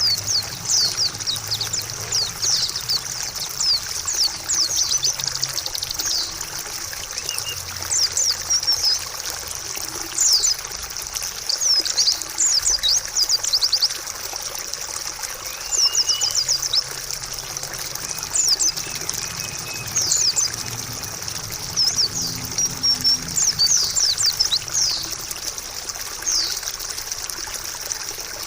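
Small songbirds, white-eyes (pleci), twittering in repeated bursts of quick, high, downward chirps, over a steady trickle of running water.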